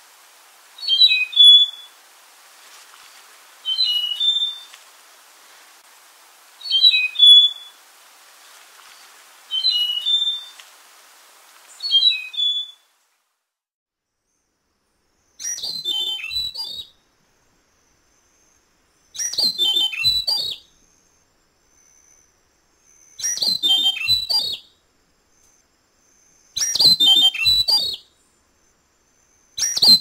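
A slaty-backed nightingale-thrush sings short high phrases about every three seconds. After a brief silence, a black-headed nightingale-thrush sings fuller phrases every three to four seconds, with a faint high steady tone between them.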